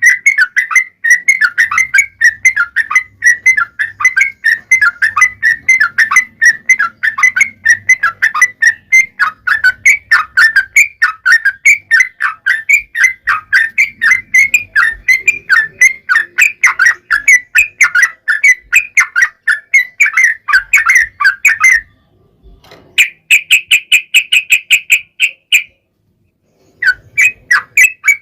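Yellow-vented bulbul singing a long, rapid run of chattering notes that stops about twenty-two seconds in. A brief fast trill follows, then a short pause, and the song starts again near the end.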